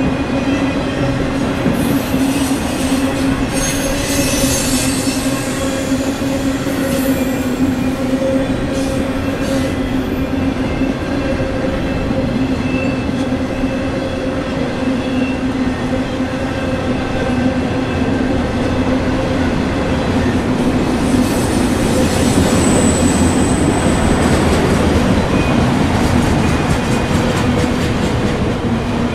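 Freight train of autorack cars rolling past at steady speed: a continuous rumble of wheels on rail, with brief high wheel squeals about three seconds in and again about two-thirds of the way through.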